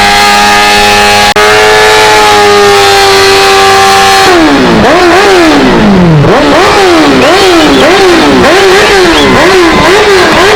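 Motorcycle engine held at high revs, then revved up and down over and over from about four seconds in, the pitch dropping and jumping back up with each throttle blip.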